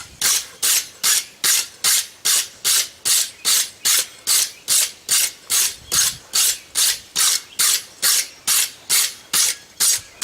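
Steel wire brush scrubbed back and forth over a freshly forged steel bar in quick, even strokes, about two and a half rasping strokes a second.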